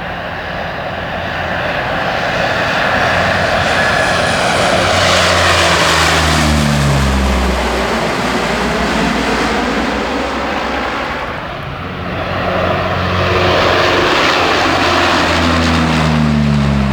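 Lockheed P-3K Orion's four Allison T56 turboprops in a low flypast, passing twice. Each time the engine sound swells, then its pitch drops as the aircraft goes by.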